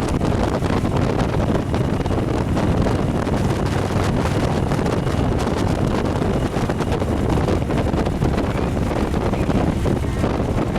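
Heavy wind buffeting the microphone on a moving motorcycle: a steady, loud rumbling roar that drowns out everything else.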